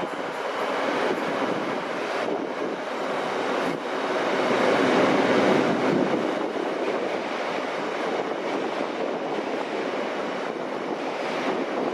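A train running past on the track, a steady rushing rumble that swells to its loudest about five seconds in and then eases off.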